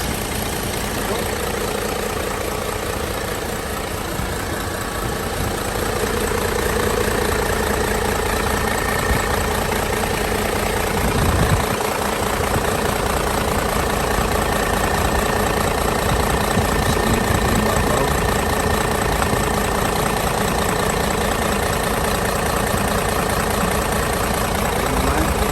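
Isuzu 6UZ1 inline-six diesel truck engine idling steadily, with a brief dull bump about eleven seconds in.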